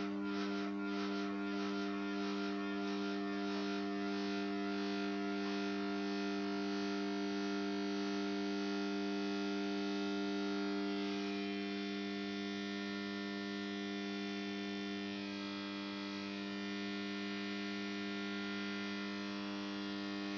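Mains-frequency hum from the 250 W two-winding choke of a ZhKU-15 high-pressure sodium street-light fixture, with a buzzy overtone. A faint pulsing about twice a second fades away over the first several seconds, then the hum carries on steadily.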